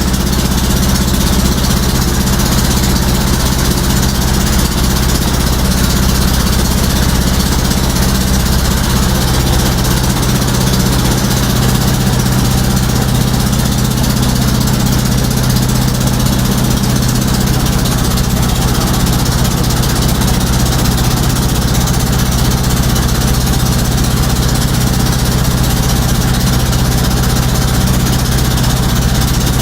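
A motorboat's engine running steadily at an even speed, loud and close, with a steady low hum under a broad hiss.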